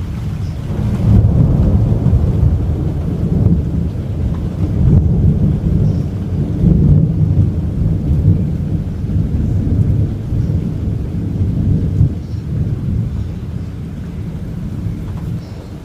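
Thunder rumbling long and low, swelling about a second in, rolling on with several surges, then easing off near the end.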